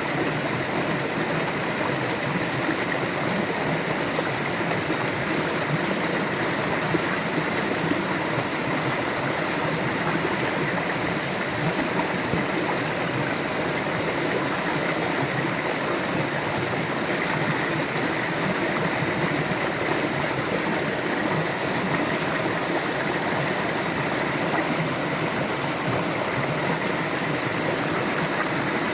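River water flowing over rocks: a steady rush and babble, even throughout.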